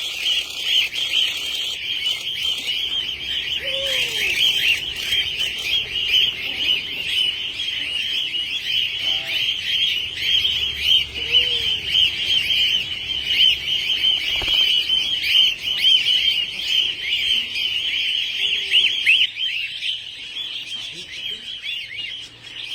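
Many small parrots chattering without pause in a dense, high twittering, with a few lower, falling calls now and then.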